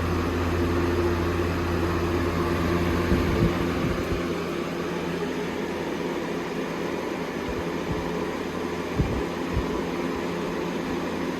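Holmes HABF-20 box fan running steadily on high: a rush of air over a motor hum, with a few knocks about three seconds in and again near nine seconds. The whole fan is shaking badly as it runs.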